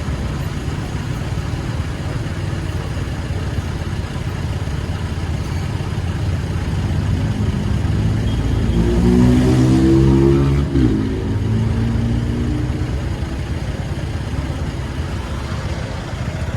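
Motorcycle engine and road rumble while riding, the engine note rising in pitch as it speeds up from about eight seconds in, breaking off briefly near eleven seconds, then pulling again before settling back.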